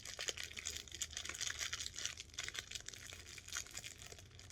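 Packing material being handled and unwrapped from a delicate item, crinkling and rustling continuously as a quick run of small crackles.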